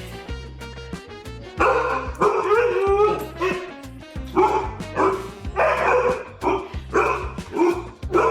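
A dog barking and yipping in a string of short, repeated calls over background music with a steady bass line.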